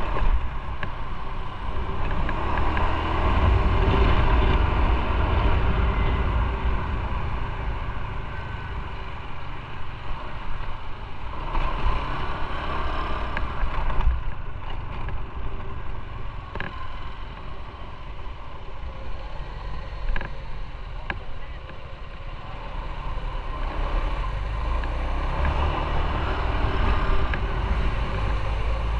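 Motorcycle on the move, its engine under a steady rush of wind and road noise that swells louder twice, near the start and again near the end.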